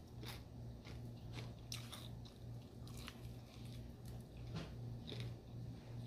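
Close-up chewing and biting of food, with faint crunches and wet mouth clicks scattered through, over a steady low hum.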